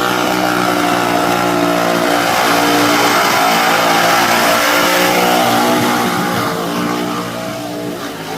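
XP Falcon burnout car's engine held at high revs during a burnout, loud and steady, easing slightly near the end.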